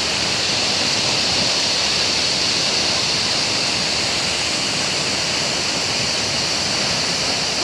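Waterfall of the Mashel River's middle falls: a loud, steady rush of falling water.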